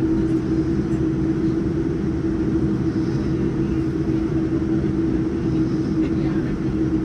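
Steady cabin noise inside a Boeing 787-9 Dreamliner with its engines running: an even rumble with one steady hum through it, neither rising nor falling.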